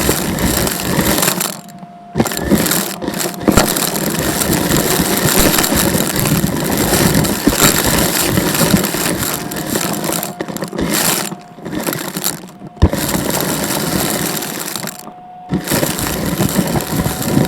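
Vacuum cleaner running: a loud rushing roar with a steady motor whine underneath. The roar drops out briefly about two seconds in and again a few times later.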